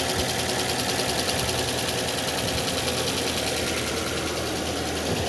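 Ford Fiesta's engine idling steadily, running with a misfire.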